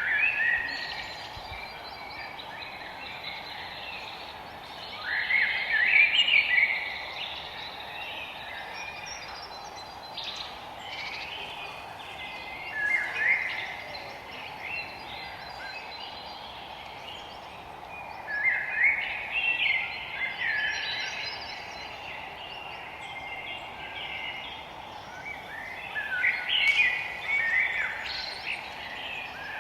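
Forest songbirds singing in bursts of quick warbling, chirping phrases, one about every six or seven seconds, over a steady background hiss.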